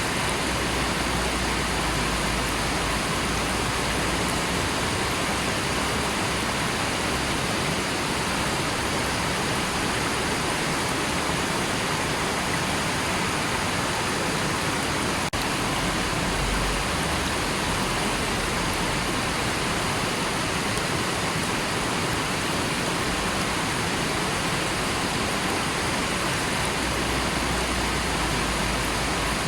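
River water flowing, an even, unbroken rushing hiss.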